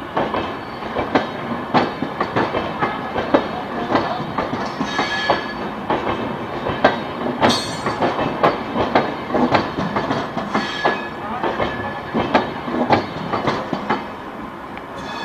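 Indian Railways passenger coaches rolling past close by, their wheels clattering over the rail joints in a continuous, uneven run of knocks over a steady rumble.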